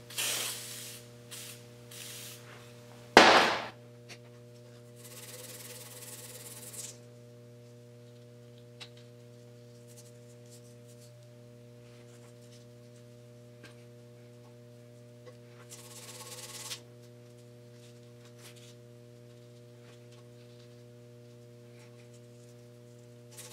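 WD-40 sprayed in short loud hisses in the first few seconds, then two spells of 1500-grit sandpaper rubbing on the metal seal surface of a differential shaft, with long pauses between. A steady electrical hum runs underneath.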